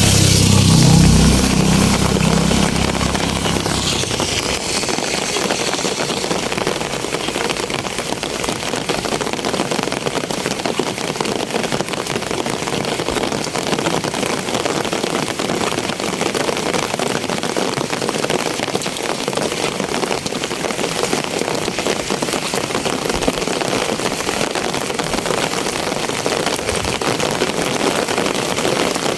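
Steady rain falling, an even hiss throughout. A motor vehicle's engine is heard in the first few seconds and fades out about four seconds in.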